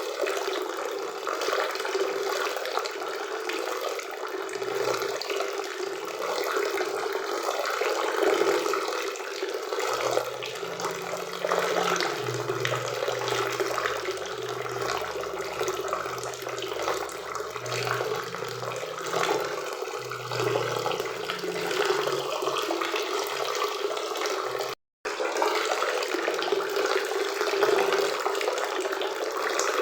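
Waterfall and river water rushing in a steady, even stream, with a split-second dropout in the sound about 25 seconds in.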